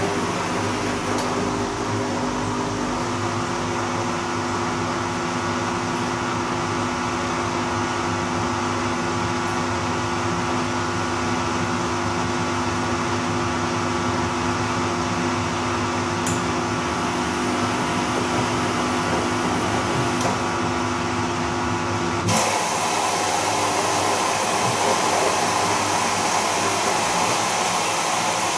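Bosch Serie 2 VarioPerfect washing machine running its Silk 30 °C program: a steady motor whine with hum, and a few faint clicks. About 22 seconds in the whine stops abruptly and a louder, even rushing sound takes over.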